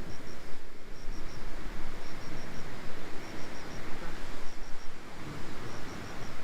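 Wind rushing and buffeting outdoors with a low rumble, while something chirps high in quick runs of three or four pips, repeating about every second.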